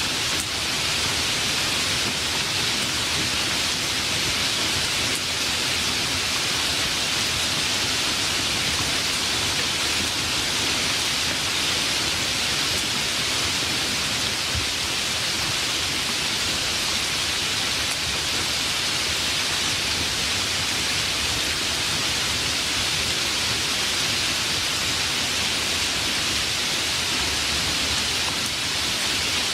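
Steady, heavy rain falling, an even hiss with no pauses or distinct events.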